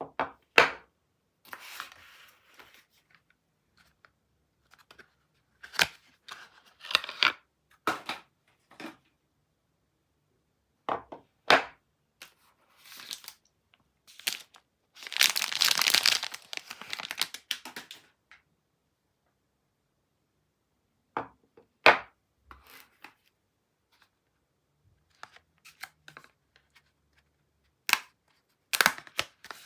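Soap packaging being unwrapped by hand: a string of sharp crackles and short crinkling rustles, with one longer tearing sound about halfway through.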